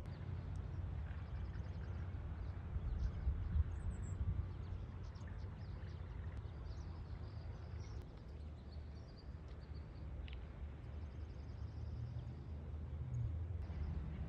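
Outdoor ambience: a steady low rumble under faint, scattered small-bird chirps.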